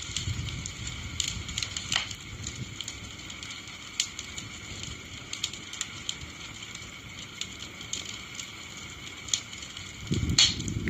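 Wood bonfire crackling, with frequent sharp pops over a low rumble. A louder pop and a swell of the rumble come near the end.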